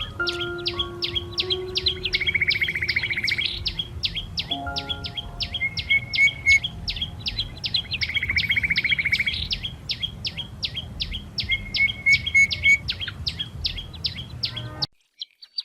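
Small birds chirping quickly and steadily, several chirps a second, broken twice by a fast buzzing trill, over background music with held melody notes. The sound cuts out briefly near the end.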